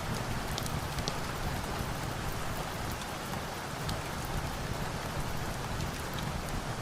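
Steady rain with a low rumble, mixed with scattered small sharp crackles from a wood fire.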